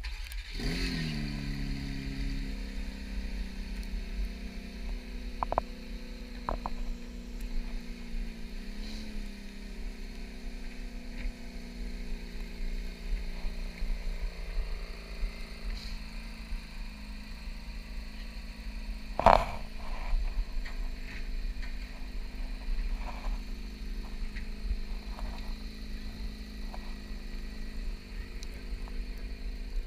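Porsche 992 911 GT3's 4.0-litre naturally aspirated flat-six just after starting, its revs falling back over the first couple of seconds, then idling steadily. A single loud thump about two-thirds of the way through.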